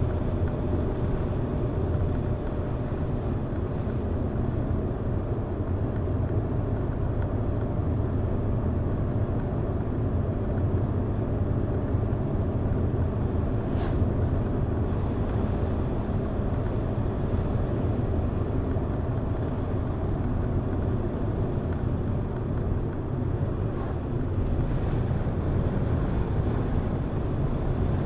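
Steady road and engine noise from a car driving along at an even pace, a low continuous drone with a faint hum in it. There is one faint click about halfway through.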